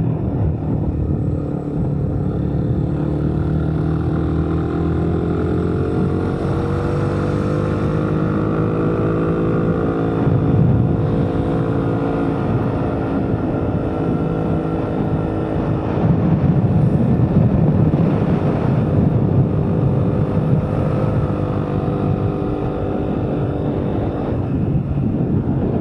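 A vehicle's engine running under way, its pitch rising a few seconds in, then easing and climbing again as the throttle changes, with a rough rushing noise that swells twice.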